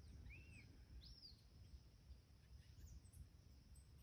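Faint bird calls: two short arching chirps in the first second or so, then a few fainter high chirps, over a faint low rumble.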